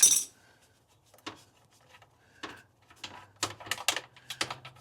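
Scattered sharp metallic clicks and taps of wrenches working a water line fitting loose at a water heater's control valve, denser in the second half. A faint low hum comes in partway through.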